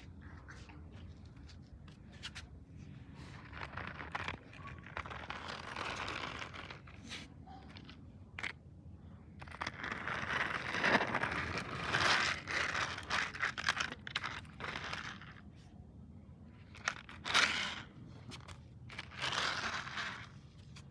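Irregular crinkling, scraping and crunching handling noises with scattered clicks, louder for a stretch in the middle and again near the end.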